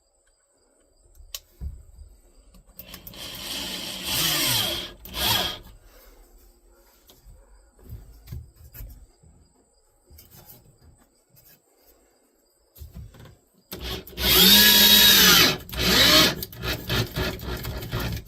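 Corded 6-amp Black & Decker drill backing out screws in two runs, the motor's pitch rising as it spins up and falling as it winds down; the second run, about fourteen seconds in, is the louder. Small knocks of handling come between the runs.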